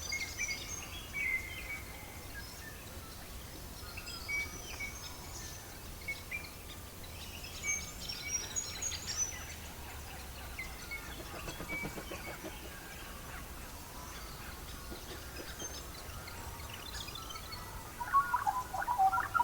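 Small birds chirping and twittering in short scattered calls over a steady low rumble. A louder, fuller burst of birdsong starts near the end.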